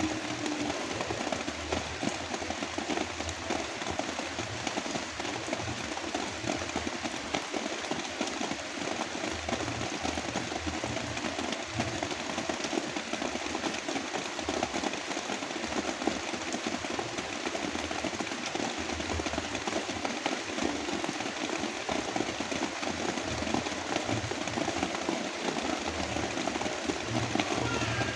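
Heavy rain falling steadily, layered with a continuous brown-noise rumble.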